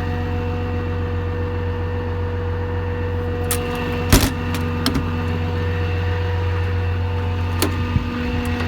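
Dodge Ram 5500's 6.7 L Cummins diesel idling steadily, with a few sharp clicks, the loudest about four seconds in.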